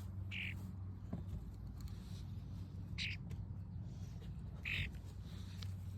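A bird giving three short, harsh calls a second or two apart over a steady low hum.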